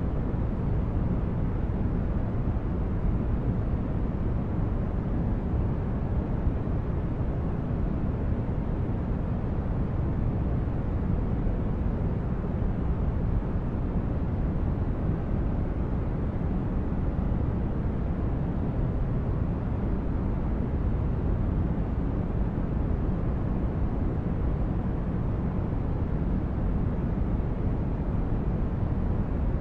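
Steady synthetic noise for sleep or relaxation, a deep rumbling hiss weighted toward the low end with little treble, unchanging throughout.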